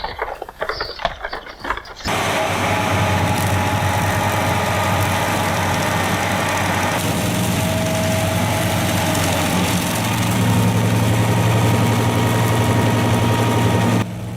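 An engine running steadily, cutting in abruptly about two seconds in after a short stretch of voice, and dropping away near the end.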